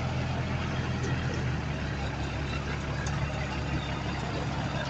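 Heavy diesel engine of an earthmoving machine running steadily, its note changing about a second and a half in.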